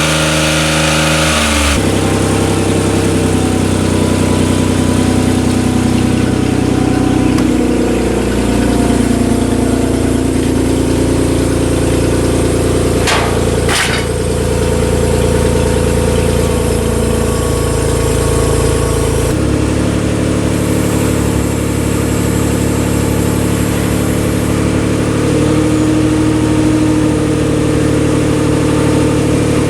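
Compact crane truck's engine running steadily, its speed rising and easing again about eight to ten seconds in. The engine note changes abruptly twice, about two seconds in and near twenty seconds, and there is a brief knock about thirteen seconds in.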